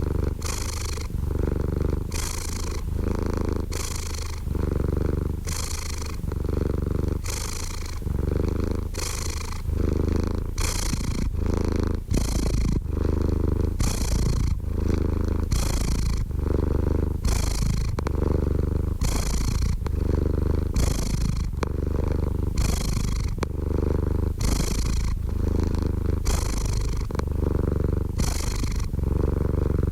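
Domestic cat purring continuously, the purr swelling and easing with each breath about once every second and a half over a steady low rumble.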